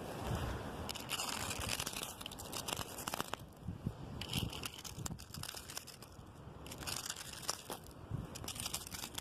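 Wind gusting through tree branches, the rustle swelling and fading every second or two, with a few sharp clicks and low buffeting from wind on the microphone.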